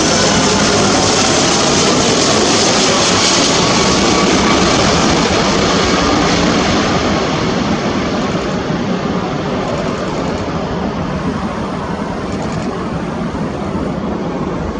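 Jet engines of a Boeing 767-300ER airliner running loud and close, a dense roar with a high turbine whine. About halfway through it starts to fade slowly as the aircraft moves away.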